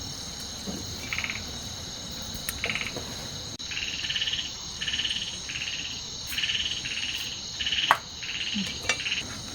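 A frog calling in short rattling notes, a few at first and then about one a second, over a steady high insect chorus. A single sharp click sounds near the end.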